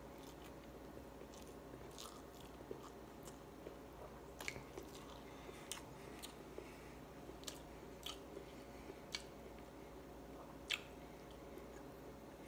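A person chewing a mouthful of rice, fish and chicken eaten by hand, with short sharp mouth clicks and smacks at irregular intervals, the loudest about ten and a half seconds in, over a faint steady hum.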